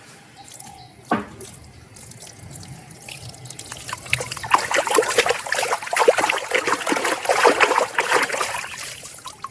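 Water trickling and splashing over a muddy plastic toy as it is rinsed clean, picking up about four seconds in and easing off near the end, with a single knock about a second in.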